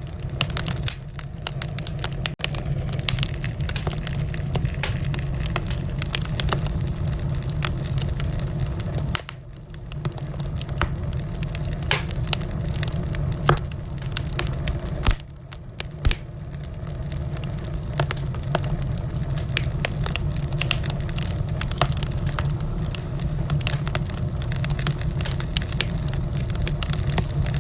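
Wood fire in a fireplace crackling, with many sharp pops and snaps over a steady low rumble of the flames; the fire briefly goes quieter twice.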